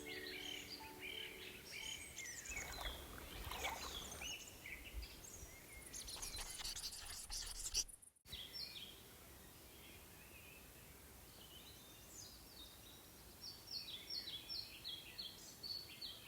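Small forest songbirds chirping and singing, with soft music fading out in the first second or two and a low rumbling noise through the middle. After a brief break about 8 seconds in, a bird sings a quick run of repeated chirps near the end.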